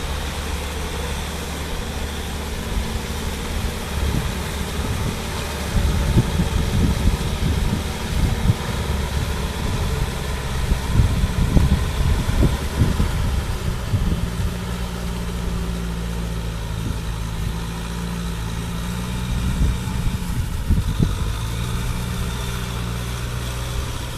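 Kubota M6040 tractor's diesel engine running steadily. Uneven knocking and rumbling comes over it for several seconds in the middle and briefly again near the end.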